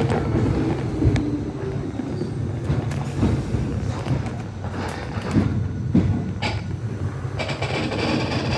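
Nishitetsu 600 series electric train running along the line: a steady rumble of the wheels on the rails with an irregular clack now and then as they pass over rail joints.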